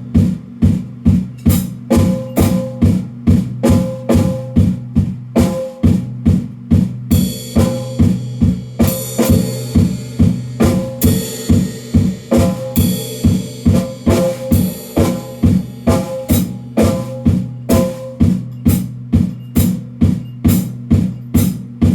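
Drum kit played in a steady beat of about two strokes a second, kick and snare with cymbals washing in over the middle stretch.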